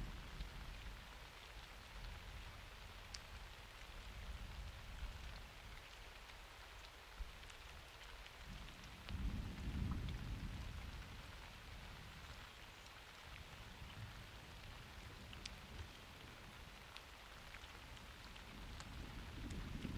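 Steady rain of a summer thunderstorm, with scattered individual drops ticking close by. Thunder rumbles low in the distance about nine seconds in for a couple of seconds, and a second rumble builds near the end.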